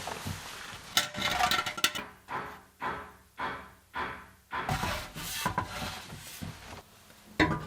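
Steel exhaust section being handled and fitted against the car: metal scraping and clinking, with a run of four short rasping strokes in the middle and a sharp metallic knock near the end.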